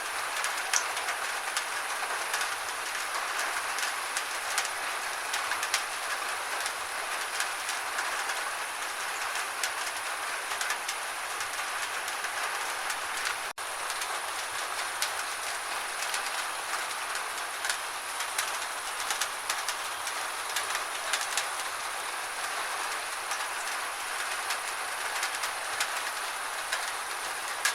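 Steady gentle rain, an even hiss with many small drop ticks scattered through it, cut out for an instant about halfway through.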